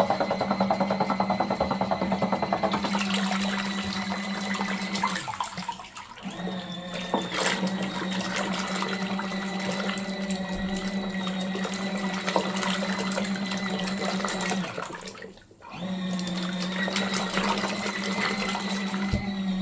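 Mini washing machine running with buffing towels in water: a steady motor hum with water churning and sloshing. The motor stops briefly twice, about six and fifteen seconds in, then starts again, as the agitator pauses and changes direction.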